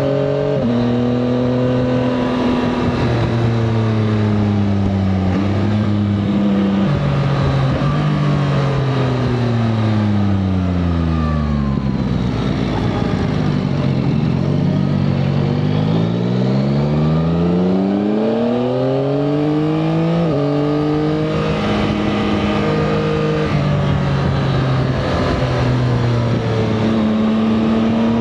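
Yamaha Tracer 9 GT+'s 890 cc inline-three engine under way, pulling through the gears with a sudden drop in pitch at each upshift. About halfway through the revs fall away smoothly as the bike slows, then climb steadily again as it accelerates, followed by more shifts and a last rise near the end.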